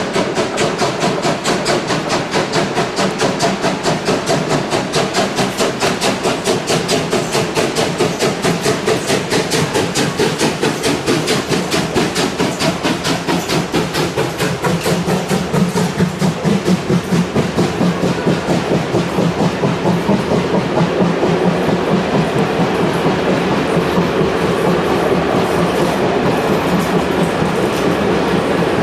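Steam locomotive working hard on a climb, its exhaust beats in a rapid even rhythm of about four a second, growing slightly louder as the train comes on.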